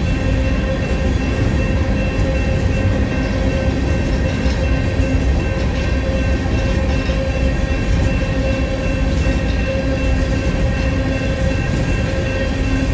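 Freight train of open-top gondola cars rolling past at a steady speed: a continuous rumble and rattle of wheels on rail, with a steady whine held throughout.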